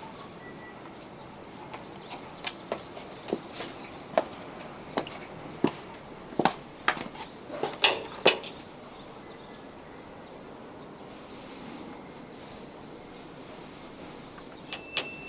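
A series of irregular sharp clicks and knocks over several seconds, then a quieter stretch of steady background.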